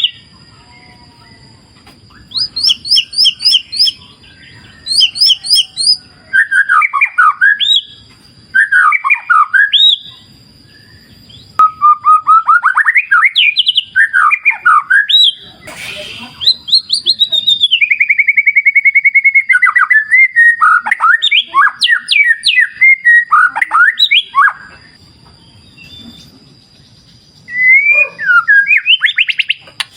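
White-rumped shama singing loud, varied phrases of rising and falling whistles and rapid trills, with short pauses between them. Underneath runs the faint, even rush of a stream, and a steady high tone sits in the background.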